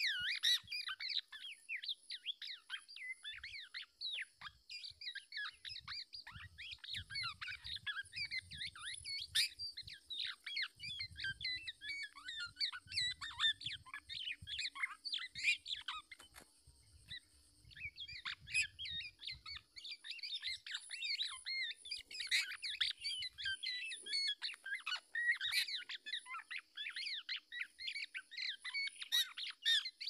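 Birds chirping and squawking in a dense, rapid, unbroken stream of short high calls, with a brief lull about sixteen seconds in.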